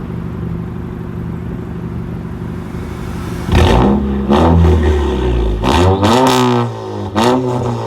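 Honda Accord 1.5-litre turbo four-cylinder with catless downpipe and resonator and muffler deleted, idling loud, then revved in several quick blips from about halfway through, the exhaust note rising and dropping back each time.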